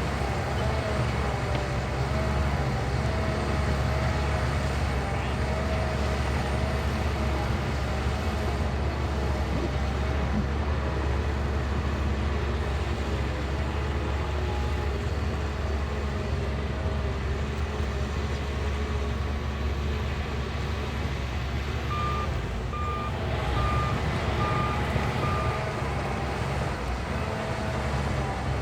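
Shantui bulldozer's diesel engine running steadily, with a reversing alarm beeping five times near the end.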